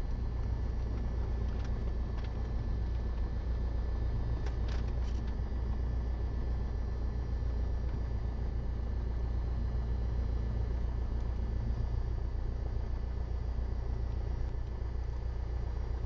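A 1977 Cessna 172N's four-cylinder Lycoming engine runs steadily, heard in the cockpit as an even low drone. A few faint clicks come about four to five seconds in.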